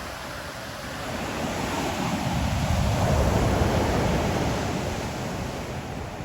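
Ocean surf washing onto the shore: one swell of wave noise that builds about a second in, is loudest in the middle, and eases off near the end.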